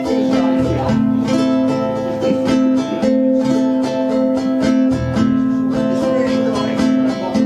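Ukuleles strumming chords in a steady rhythm, playing live.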